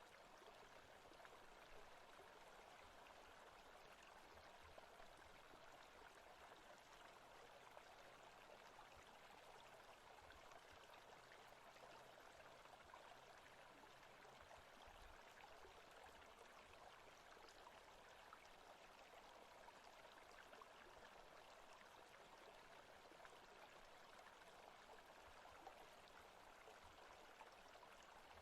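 Faint, steady rushing of a forest stream from an ambient nature-sound track.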